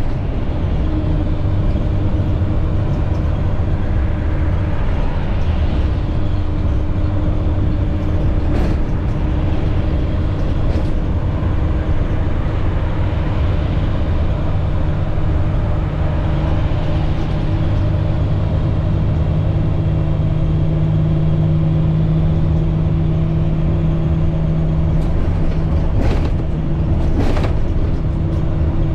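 International MaxxForce DT inline-six diesel engine running steadily in an IC CE300 school bus on the move, with a low road rumble. A few sharp knocks from the bus going over bumps come once near the middle and twice near the end.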